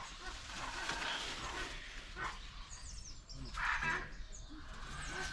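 Birds calling: a few harsh calls about a second or so apart, with short high chirps in between.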